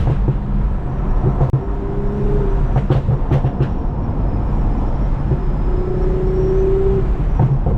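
Toyota Mark X V6 with a modified exhaust running steadily on the move, a constant low exhaust drone, with a few sharp ticks about three seconds in.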